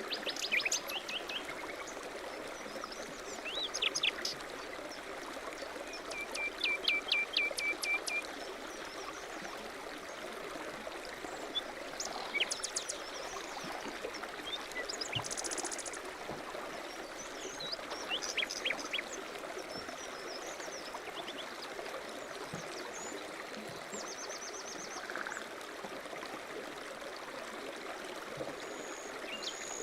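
A stream running steadily, with songbirds calling now and then over it; about six seconds in, one bird gives a quick run of about eight evenly spaced notes.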